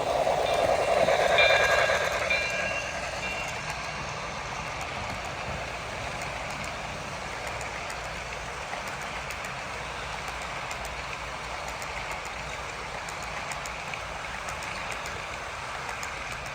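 HO scale model passenger train running on track behind a Broadway Limited Imports PRR T1 steam locomotive, whose Paragon 4 sound decoder plays steam locomotive sounds. Louder, with several steady tones, for the first two to three seconds, then a steady rolling hiss with faint ticks.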